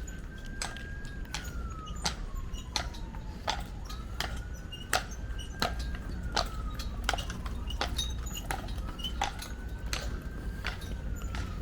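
Hard clip-clop steps, about two a second, with a high squeak that rises, holds and falls away roughly every three seconds.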